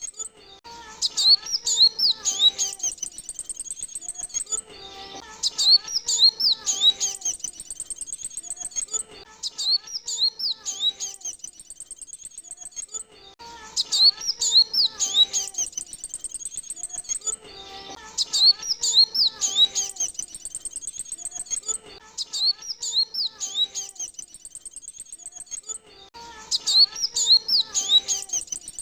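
Male kolibri wulung sunbird song, a recorded lure call played in a loop: bursts of high, rapid, sweeping chirps, each about three seconds long, repeating about every four seconds, with lower, steadier notes under them.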